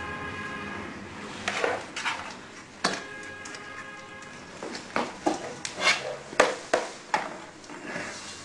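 A series of sharp clicks and knocks, a dozen or so at irregular intervals, from hard metal and plastic parts of a chocolate fountain being handled and set back together, over faint background music.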